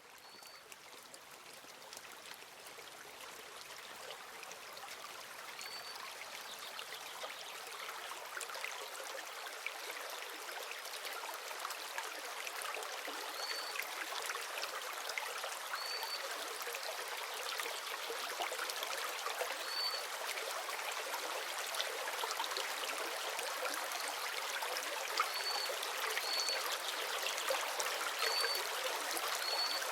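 Running water, like a trickling stream, fading in over the first several seconds and then steady. A short high chirp recurs every few seconds above it.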